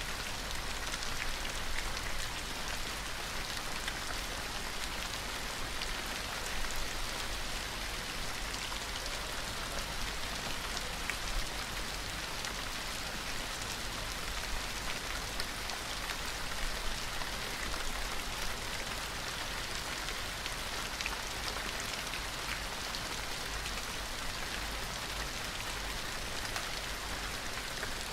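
Gentle rain falling steadily: an even hiss dotted with many small drop ticks, over a low steady rumble.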